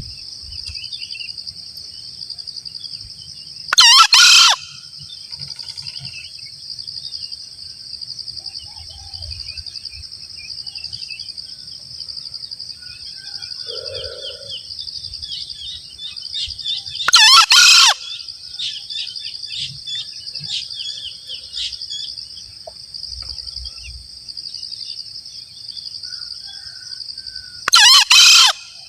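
Male green junglefowl crowing three times, each a short harsh call of under a second, spaced about ten seconds apart. A steady high-pitched insect drone runs underneath.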